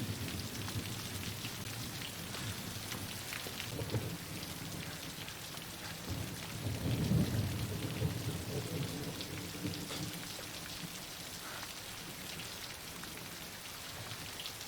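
Steady rain falling, with a low rumble of thunder that swells about six seconds in and fades over a few seconds.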